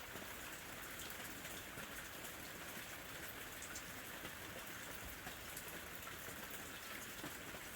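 Steady, gentle summer rain falling, an even hiss with many faint drop ticks.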